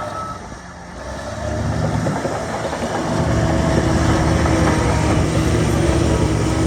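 Heavy diesel engine of earthmoving machinery running. It dips briefly, then builds up about a second and a half in and again about three seconds in, holding under load.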